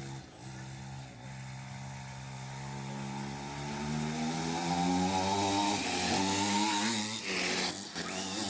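Small dirt-bike engine running at a steady low speed, then speeding up with a rising pitch from about three seconds in, easing off briefly near seven seconds and picking up again.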